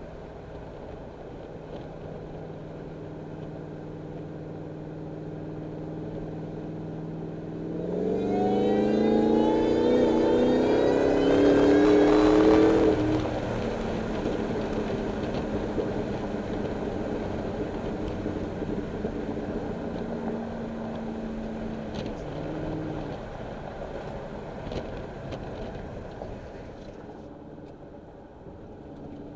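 Ford SVT Lightning's Eaton-supercharged V8 cruising, then a hard second-gear pull about eight seconds in. The revs climb with a rising supercharger whine from the lightly ported blower with filled silencer ports, for about five seconds, then drop away to steady cruising with road noise.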